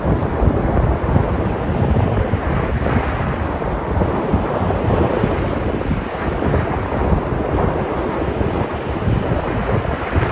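Sea surf: waves breaking and washing onto the shore in a steady rush, with a low rumble of wind buffeting the microphone.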